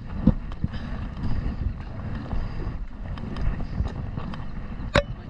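Wind buffeting the microphone and water sounds from a kayak heading out on the sea, with scattered knocks and one sharp knock near the end.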